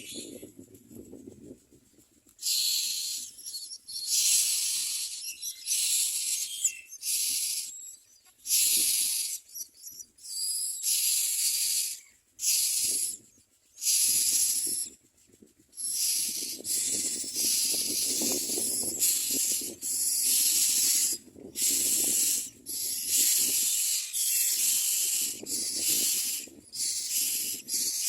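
Common myna chicks begging for food with harsh, raspy hissing calls, repeated in quick bursts one after another: the sound of hungry nestlings.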